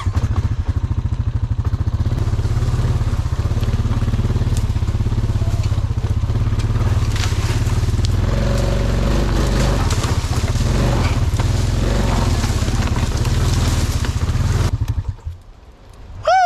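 Four-wheeler (ATV) engine running steadily with a rapid low pulse, shutting off about fifteen seconds in. A short, falling, high-pitched call follows right at the end.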